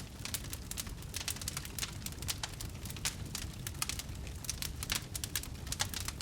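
Wood fire crackling in a fireplace: many irregular sharp pops and snaps over a low rumble of the flames.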